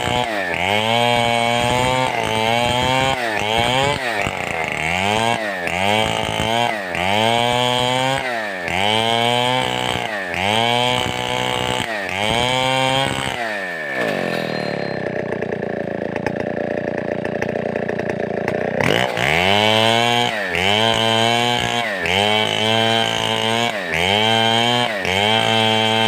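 Large 070-class two-stroke chainsaw being revved in a steady rhythm, the throttle blipped about once a second so the engine note rises and falls. About two-thirds of the way through, it drops back to idle for around five seconds, then the rhythmic revving starts again.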